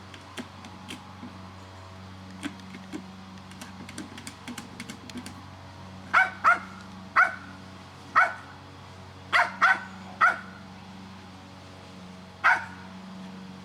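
A dog barking at a bin that holds its toy: about eight short barks in the second half, some in quick pairs. Faint scattered clicks come before the barking.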